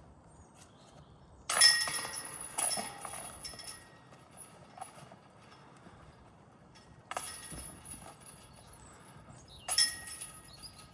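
Disc golf basket chains and metal basket clanking and ringing as discs hit them, four separate hits, each rattle dying away within about a second.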